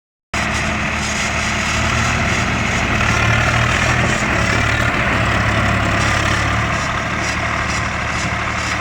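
Farm tractor's diesel engine running steadily at a low, even pitch.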